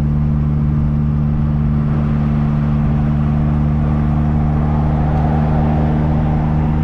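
Four-cylinder engine of a 1275cc MG Midget running at a steady cruise, its note holding even, with wind and road noise in the open-top car.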